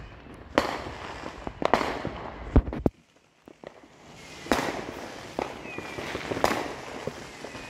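Consumer fireworks going off: a scatter of sharp bangs and pops with small crackles between them. The loudest bang comes about two and a half seconds in, followed by a moment of near quiet before more bangs.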